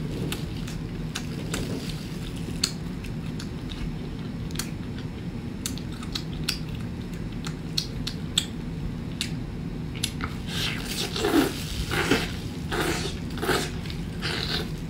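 Close-up wet chewing and biting of rubbery octopus tentacles in sauce, with scattered small clicks and squishes. From about ten seconds in the chewing grows louder, coming in even strokes a little under a second apart.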